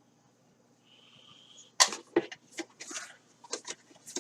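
Action-camera carry case and its packaging being handled and opened by hand. A faint brief squeak comes first, then a run of sharp clicks and rustles starting a little under two seconds in.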